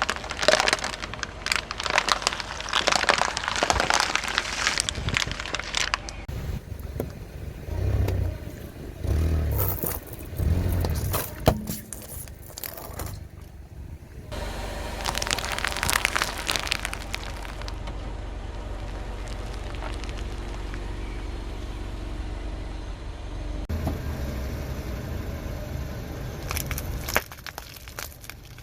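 A car tyre rolling over and crushing crunchy objects: stretches of dense crackling and cracking, with the car's engine running low between them.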